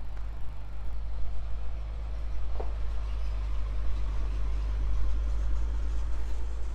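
A motor vehicle passing by: a steady low rumble, with engine and road noise that swells through the middle and eases off near the end.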